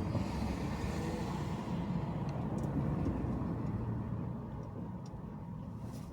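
A moving car's road and engine noise: a steady low rumble that eases a little about four seconds in.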